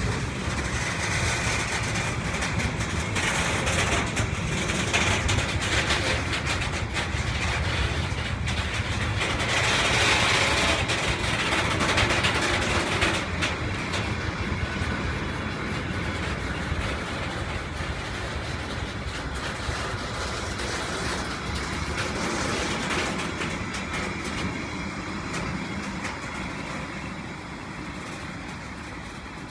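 Freight train running through the station, a steady rumble of wagons with rapid clicking of wheels over the rails. It is loudest partway through, then fades away near the end as the train draws off.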